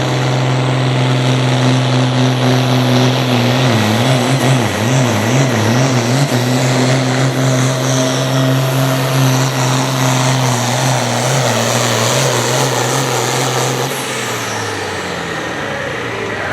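Farm stock pulling tractor's diesel engine running hard at a steady high pitch under load, wavering briefly about four seconds in. Near the end the engine winds down as the throttle comes off, with a high whine falling away.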